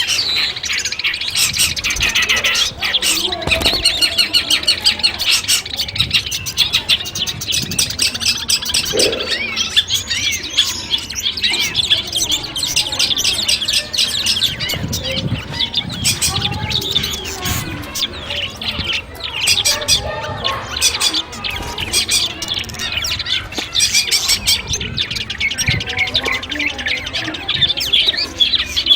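Long-tailed shrike (cendet) song: a dense, continuous stream of rapid chirps, trills and mimicked calls from several birds overlapping. It is a masteran recording, played to tutor and toughen a contest shrike.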